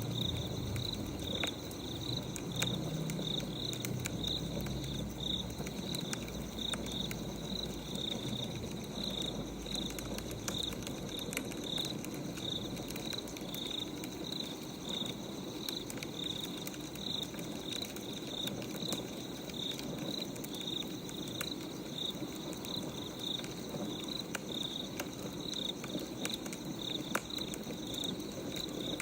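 Wood fire crackling with scattered sharp pops, over steady cricket chirping that repeats about twice a second.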